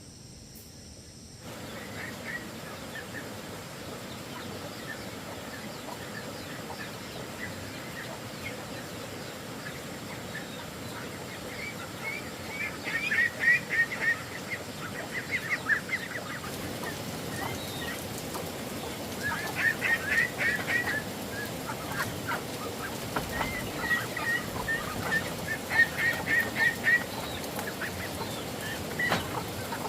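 Farmyard poultry calling in three bursts of rapid short calls in the second half, over a steady outdoor background.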